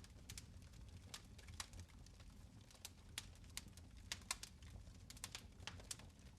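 Fire crackling in a fireplace: faint, irregular sharp pops and snaps, several a second, over a low steady rumble.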